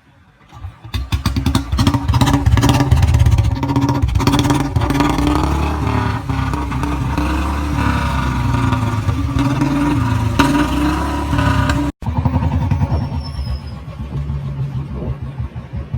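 Royal Enfield motorcycle engine running through a long-bottle Punjab aftermarket silencer, revved up about a second in and held at high revs. After a brief break near the end it runs at lower revs, its separate exhaust beats plainly heard.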